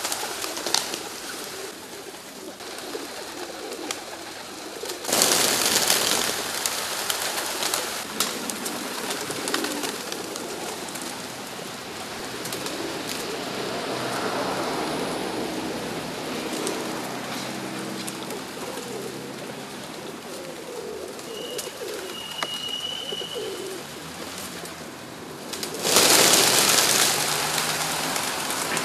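Pigeons cooing in low, repeated phrases over a steady rustling background. Two loud rushes of noise stand out, one about five seconds in and one near the end.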